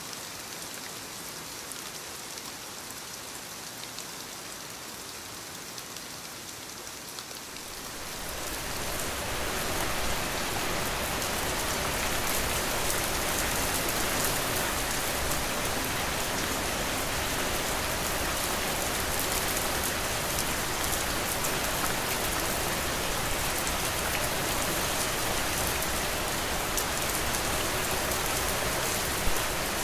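Steady rain, lighter at first and then growing heavier and louder about eight seconds in, with one sharp tap near the end.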